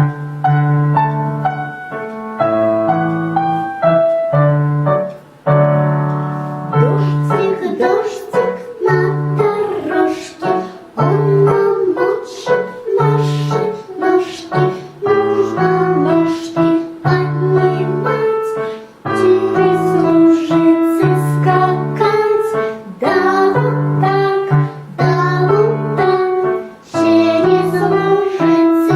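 A piano-style keyboard accompaniment plays an intro with a repeating bass line, then a child's voice comes in about seven seconds in and sings the melody of a children's song over it.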